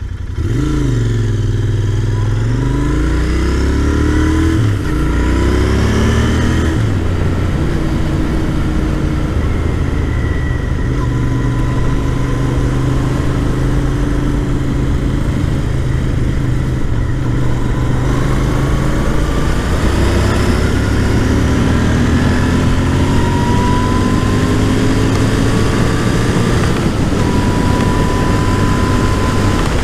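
2021 Royal Enfield Continental GT 650's 648 cc parallel-twin engine running through a loud aftermarket open exhaust. It revs up and down several times in the first few seconds, then runs more steadily with slow rises in pitch.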